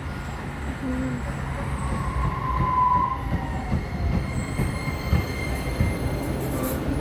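DART light rail train rolling into a station. Its wheels rumble on the rails, with a brief high wheel squeal about two to three seconds in and a few knocks over the rails after it.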